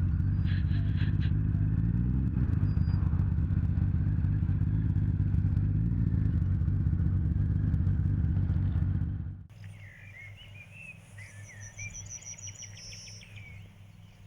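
Motorcycle engine idling steadily, cutting off abruptly about nine seconds in. Birds then sing, with several chirps and a short trill.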